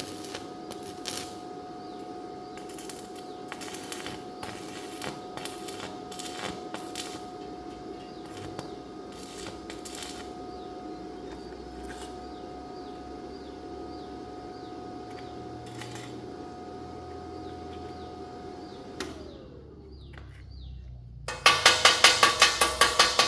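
A small motor hums steadily under scattered light clicks, then winds down and stops near the end. Loud, rapid, evenly spaced knocking starts just after.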